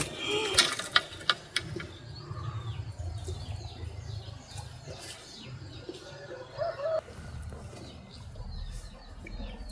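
Small birds chirping again and again in short, downward-sliding chirps over a low rumble. In the first second and a half there are a few sharp splashes and knocks.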